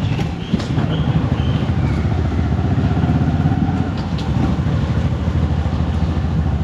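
Motorcycle engine running steadily under way, a dense low pulsing with wind and road noise.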